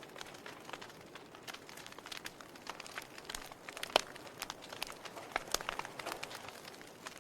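Wood fire burning in a fireplace, crackling with irregular sharp pops over a soft hiss; one louder pop about four seconds in.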